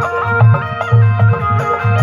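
Instrumental Rajasthani folk bhajan music: a melody instrument holds and steps between notes over a steady hand-drum beat of about two strokes a second.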